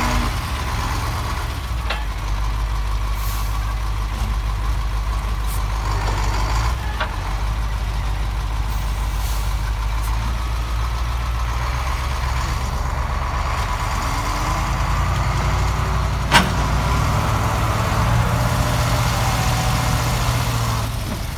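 Heavy vehicle engine running steadily, a low drone throughout, with one sharp knock about 16 seconds in.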